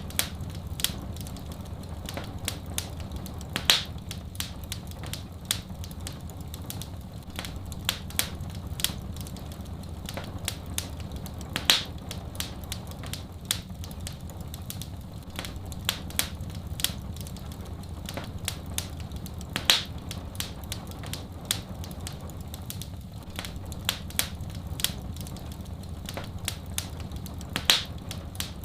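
Wood fire crackling in a fireplace: dense small snaps and crackles over a steady low rumble, with a louder pop about every eight seconds.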